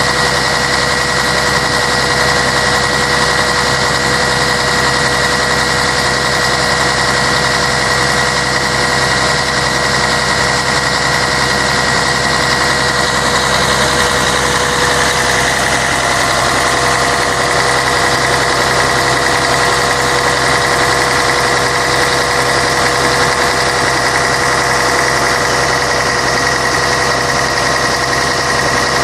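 Scania K113 bus's 11-litre six-cylinder diesel engine running steadily, with steady whining tones over it that shift slightly about halfway through.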